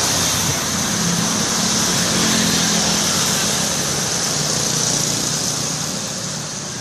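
Cement mixer truck's engine running steadily with a hiss above it, growing a little quieter near the end.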